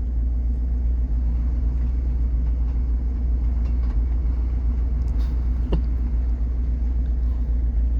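Truck engine idling steadily with a low rumble, with one short rising chirp a little more than halfway through.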